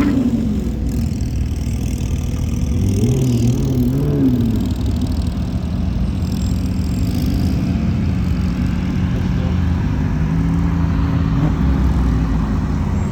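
Car engine running steadily, its pitch briefly rising and falling about three to four seconds in.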